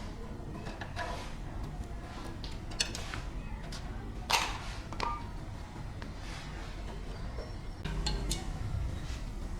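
Scattered light clicks and knocks over a low background rumble, with one louder clank about four seconds in that rings briefly.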